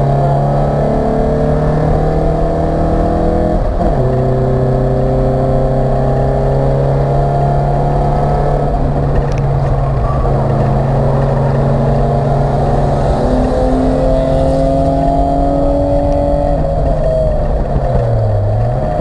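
Acura Integra race car's engine heard from inside the stripped cabin under hard acceleration. The revs climb steadily through a gear, drop briefly with an upshift about four seconds in, then climb again. Near the end the revs fall as the car slows, with a quick dip and rise in pitch.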